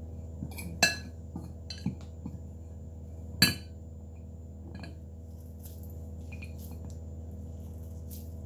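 Kitchenware clinking: two sharp, ringing clinks, about a second in and about three and a half seconds in, with a few lighter knocks between, over a steady low hum.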